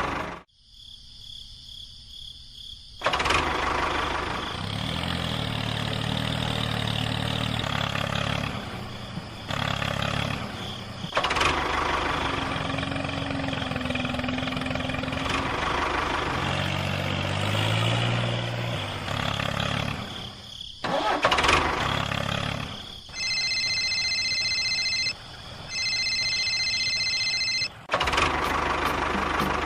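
Tractor engine sounds starting, running and changing several times, with two stretches of a steady high electronic tone, each about two seconds long, near the end.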